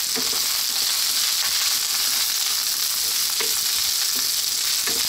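Cauliflower, green beans and carrots sizzling in hot oil in a wok while being stirred with a wooden spatula: a steady frying hiss with a few light knocks of the spatula against the pan.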